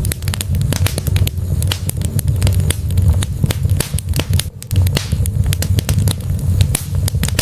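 Wood fire burning in a fireplace: logs crackling and popping in quick, irregular snaps over a steady low rumble of the flames, with a brief lull about two-thirds of the way in.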